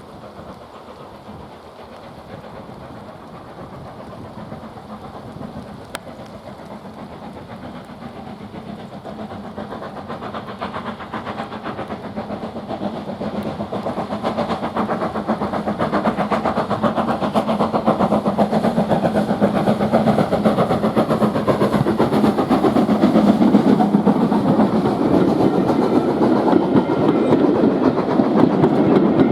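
Steam-hauled train approaching, growing steadily louder, with a fast, dense rattle of wheels and running gear on the rails.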